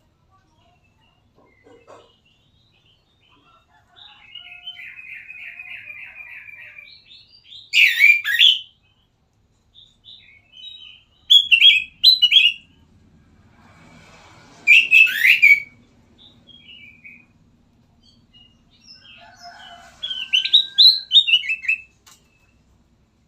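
Kutilang emas bulbul singing: four loud bursts of quick, falling whistled notes, with a softer rapid trill before the first.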